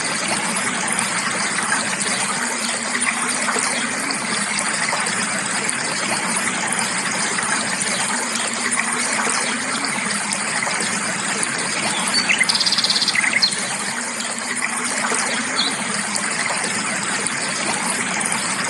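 Creek water flowing and rushing steadily, with birds chirping over it: a few short calls and one quick rapid trill about two-thirds of the way through.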